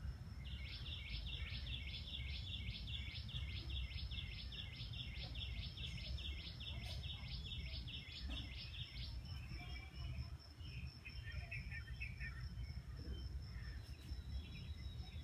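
A bird repeating a short chirping call rapidly, about three times a second, for the first nine seconds or so, then stopping. Under it a steady high-pitched trill and a low rumble continue throughout.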